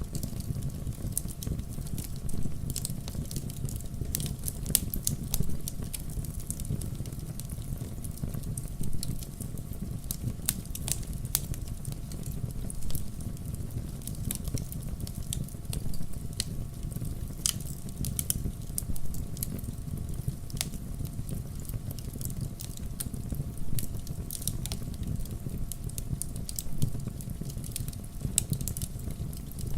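Wood fire crackling: a steady low rumble of flames with irregular sharp pops and snaps from the burning firewood.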